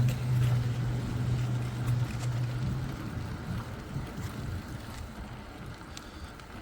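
Wind rushing over a phone microphone while riding a bicycle, with a steady low hum that stops about three seconds in.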